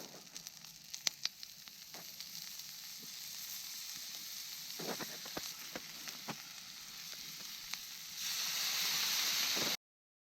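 Karaage (Japanese fried chicken) deep-frying in hot oil: a steady sizzle with scattered sharp pops. The sizzle grows louder near the end, then cuts off abruptly.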